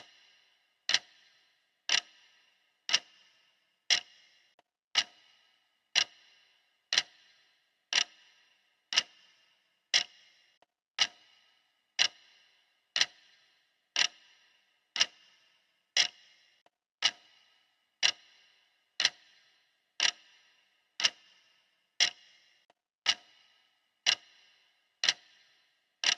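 Clock-style ticking of a countdown timer, one sharp tick every second with a brief ringing tail, steady and even throughout.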